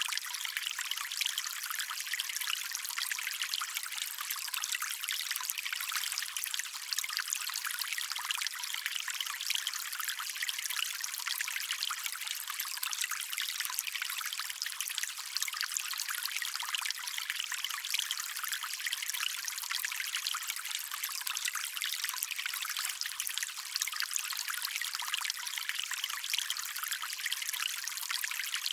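Small stream trickling and babbling over stones, a steady fine-grained splashing, bright and light with almost no low rumble.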